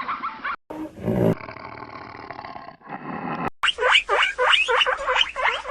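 Animal calls from several clips cut together: a short loud low call about a second in, then from about halfway a rapid run of loud, swooping, repeated calls.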